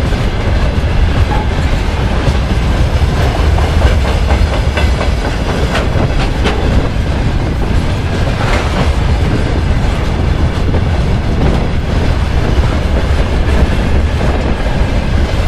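Freight train wagons rolling past, loud, with a steady rumble and the clickety-clack of steel wheels over the rail joints.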